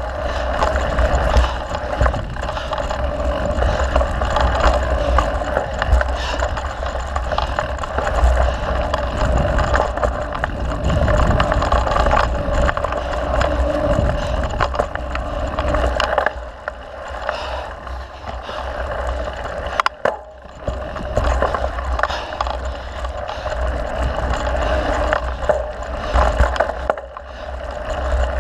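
Mountain bike riding on a dirt trail: steady rolling and rushing noise with wind on the microphone and scattered clicks and rattles from the bike. It eases off briefly a little past halfway, then picks up again.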